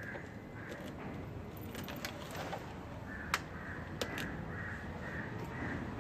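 A harsh beep repeating about twice a second, which pauses and starts again about three seconds in, with two sharp clicks around three and four seconds in.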